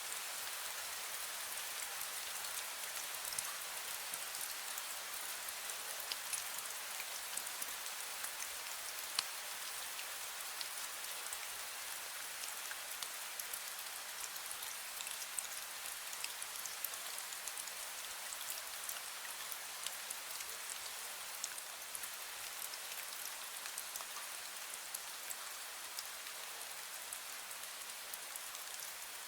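Fine drizzle falling steadily: an even hiss of rain with many small drops ticking on surfaces.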